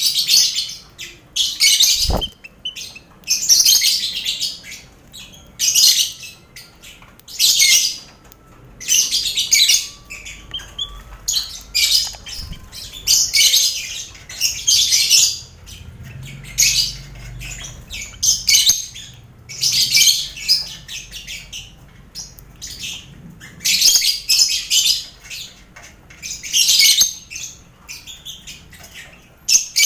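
A colony of lovebirds calling in shrill, chattering bursts that come again and again with brief gaps, with finches mixed in.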